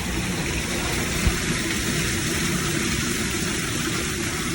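Steady hiss of rain on a city street with a low rumble underneath, and a single short knock about a second in.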